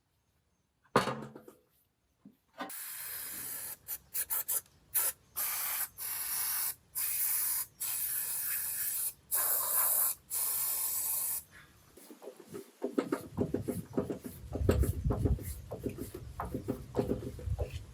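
Hissing spray, let off in about ten on-off bursts of half a second to two seconds each. It is followed by irregular rubbing and scraping strokes, with a single knock near the start.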